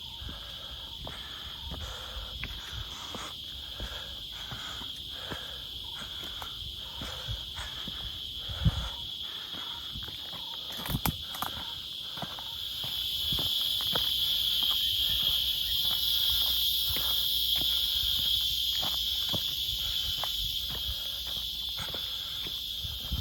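Insects droning steadily in the forest, a high continuous buzz that grows louder about halfway through, over the regular crunch of footsteps walking along a trail.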